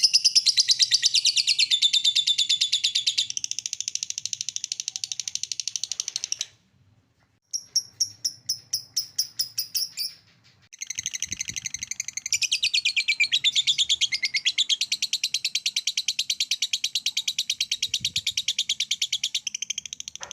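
A lovebird's 'ngekek' song: a long, fast, unbroken run of high, shrill chirps, many to the second. It breaks off about six and a half seconds in, returns as separate chirps for a couple of seconds, pauses briefly, then the fast chatter resumes.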